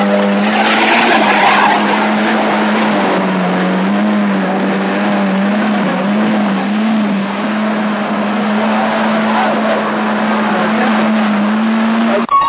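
Car engine running hard at high revs as it climbs a steep muddy hill. Its pitch wavers as the tyres scrabble for grip on the loose surface. Guitar music cuts in at the very end.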